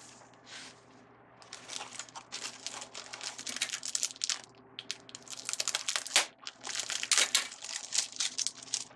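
Stiff craft ribbon rustling and crinkling as it is handled and folded, starting about one and a half seconds in and growing louder in the second half.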